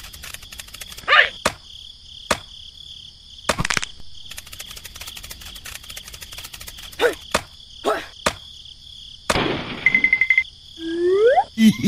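Steady cricket chirping in the background, overlaid with cartoon sound effects: several sharp clicks, a few quick rising swoops, a fast run of beeps about ten seconds in, and short sliding tones near the end.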